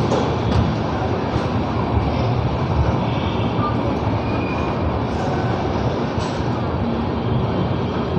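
A passenger train's sleeper coach in motion: a steady rumble of the running train with a few light clicks and brief high squeaks from the wheels and coach.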